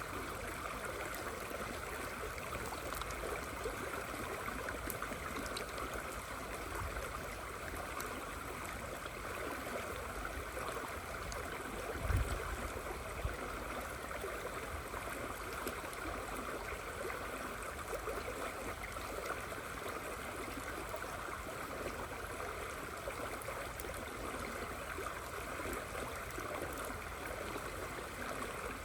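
River flowing steadily in the rain, an even rushing of water with faint scattered patter. A brief low thump about twelve seconds in.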